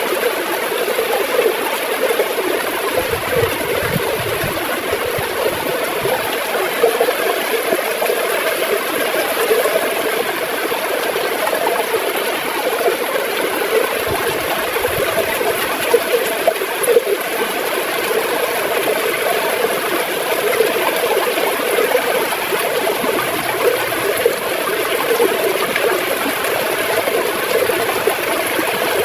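River water gurgling and flowing steadily.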